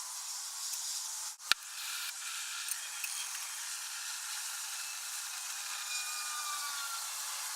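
Steady hiss of a brazing torch flame, with a single sharp click about one and a half seconds in.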